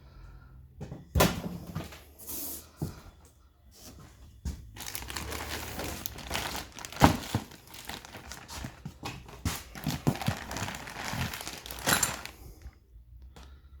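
Packaging crinkling and rustling in irregular bursts as the outboard motor's parts are handled and unwrapped, with a few sharp clicks and knocks.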